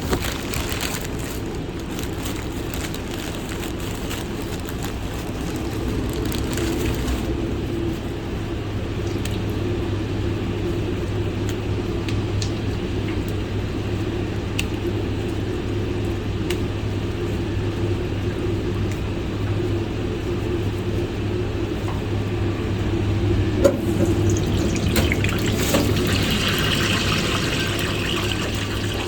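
Steady drone of fast-food kitchen equipment, such as ventilation hoods and refrigeration, with scattered light clicks and clatter. A brief hiss, like running water, near the end.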